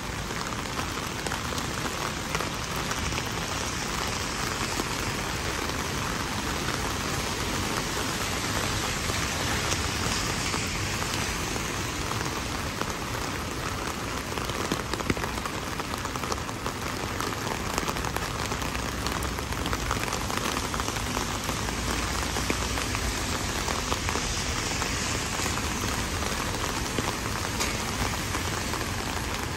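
Heavy rain falling steadily, a dense hiss of countless drops hitting surfaces, with no let-up.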